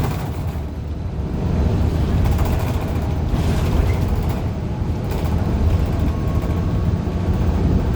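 A 2015 Gillig Low Floor 40-foot transit bus with a Cummins Westport ISL G natural-gas engine, running on the road and heard from inside the cabin: a steady low engine and road rumble.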